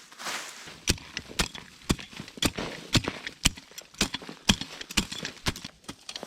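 Repeated sharp knocks, about two a second, starting about a second in and keeping an even rhythm.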